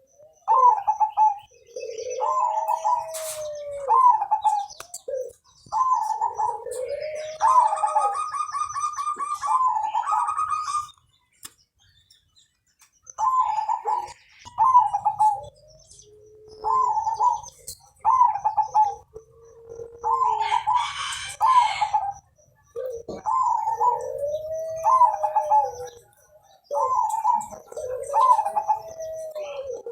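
Perkutut (zebra dove) cooing over and over: each phrase is a few short clipped notes followed by a long arched, rolling note. There is a higher chirping call about eight seconds in and a short pause near twelve seconds.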